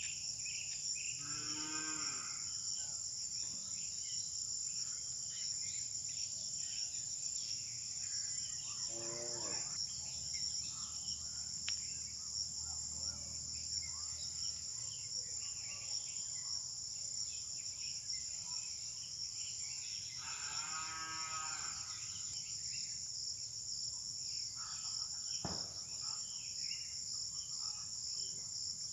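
Steady shrill chorus of insects, with a cow mooing three times: near the start, about nine seconds in, and about twenty seconds in. A single sharp click comes near the end.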